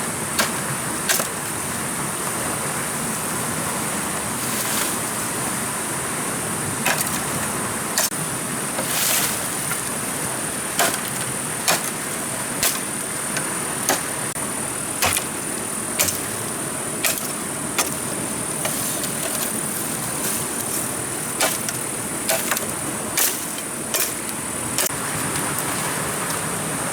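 Sharp knocks at uneven spacing, roughly one a second, over a steady hiss and a steady high-pitched whine.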